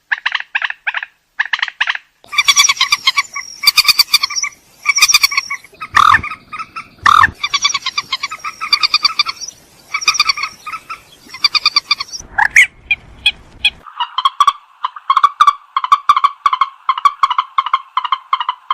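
Purple swamphen calling: repeated bursts of rapid pulsed notes, breaking into a longer, near-continuous run of notes in the last few seconds.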